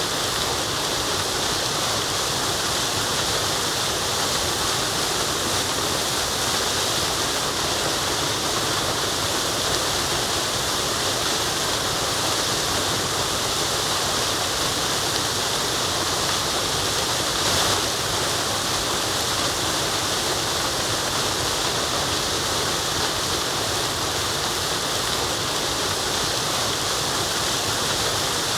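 Waterfall: water falling and running in a steady, unbroken rush, with a brief slightly louder swell a little over halfway through.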